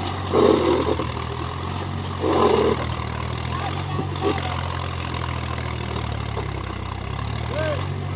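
Mahindra tractor's diesel engine running steadily at low revs, with two brief louder bursts about half a second and two and a half seconds in.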